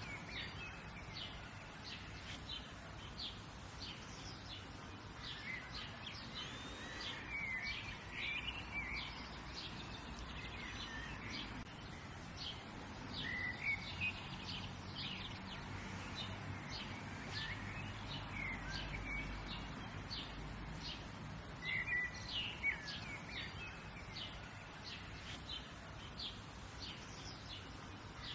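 Several birds chirping and calling, short notes scattered throughout, over a steady outdoor background hum.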